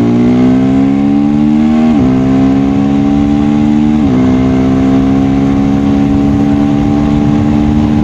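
KTM Duke 390's single-cylinder engine under acceleration. Its pitch climbs and then drops sharply with upshifts about two and four seconds in, then holds steady at cruising revs, with another drop near the end.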